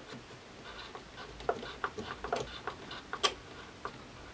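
Light, irregular clicks and taps of hands working inside a VCR's tape mechanism, cleaning its rollers and pulleys with isopropyl alcohol. One sharper click comes about three seconds in.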